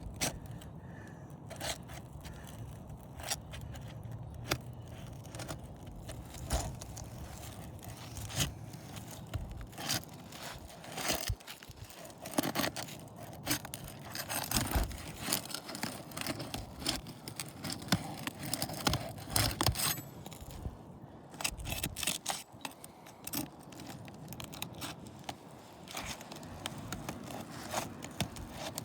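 A metal pry bar scraping and clicking against asphalt roof shingles, prying the sealed shingles loose to free a damaged one.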